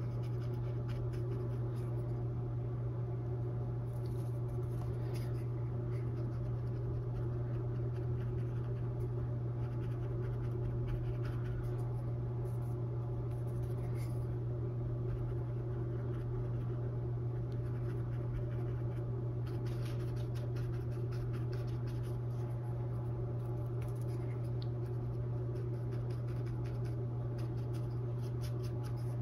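Dry oval mop brush working paint onto a stretched canvas in faint, irregular scratchy strokes, over a steady low hum.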